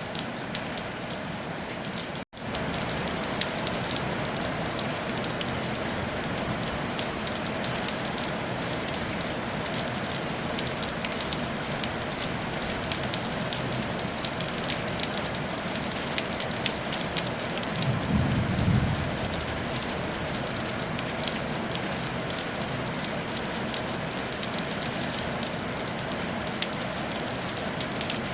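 Steady rain falling on a tile roof, a dense even patter with fine crackling drops. The sound cuts out for an instant just after two seconds, and a brief low rumble rises under the rain about two-thirds of the way through.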